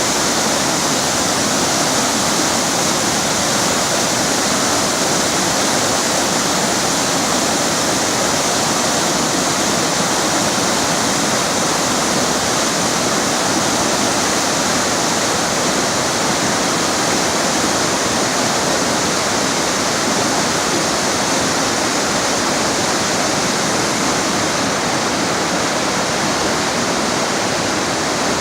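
River water rushing, a loud, steady, even hiss of flowing water that does not change.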